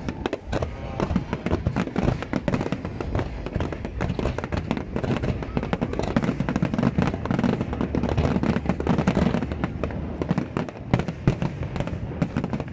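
Aerial firework shells bursting in a dense, continuous barrage: many overlapping bangs with no break.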